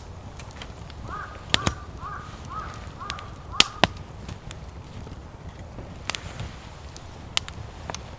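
A crow cawing six times in quick succession, about two caws a second, then falling silent. Sharp scattered clicks and pops sound throughout over a steady low rumble.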